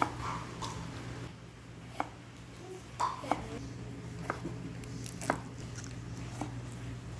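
Scattered light taps and clicks, about seven over several seconds, over a steady low hum.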